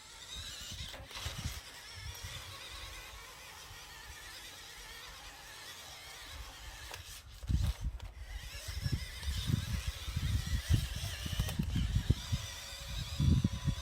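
Small electric motor of an RC monster truck whining, its pitch wavering up and down. From about halfway in, irregular low thumps and rumble join it and become the loudest part.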